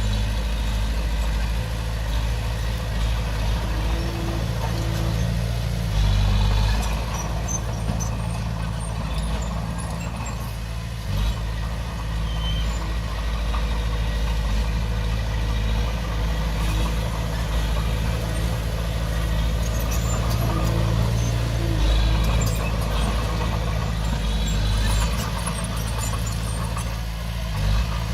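Komatsu D20P bulldozer's diesel engine running steadily, its note swelling louder briefly about six seconds in and again around twenty-two seconds.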